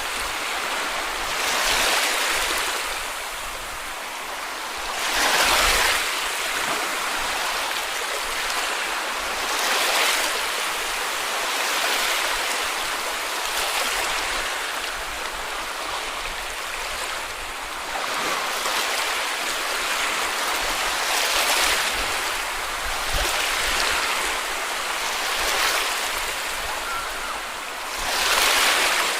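Small sea waves washing onto a beach, a steady hiss of surf with a fresh wash breaking every two to four seconds, the biggest about five seconds in and near the end.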